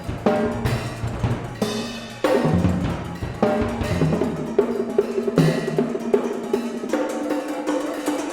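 A percussion trio playing drums, with hard strokes and deep, ringing low drum tones. About halfway through the low booms drop away into quicker, lighter strokes over steadily ringing pitched tones.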